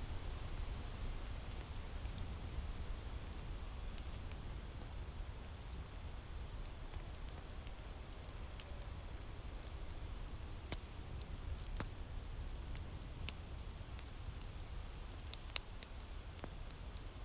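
Wood fire crackling, with a few sharp pops in the second half, over a steady low winter wind.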